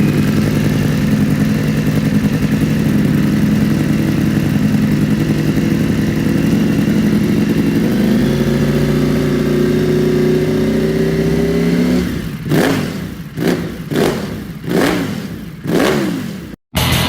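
Motorcycle engine running steadily at a held speed, its pitch slowly rising. About twelve seconds in it gives way to about five quick throttle blips, each revving up and dropping back.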